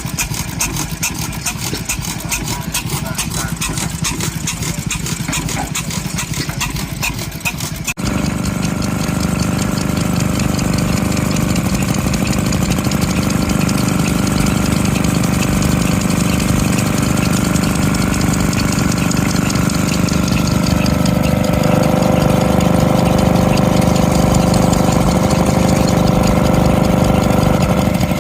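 Vintage stationary engines running. A fast, even beat is heard for about the first eight seconds, then it cuts to a different engine with a steady, slightly louder running sound.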